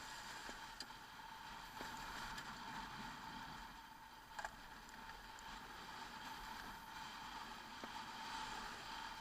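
Motorcycle running at a steady speed, engine drone and wind noise, with a few faint clicks and one sharper click about halfway through.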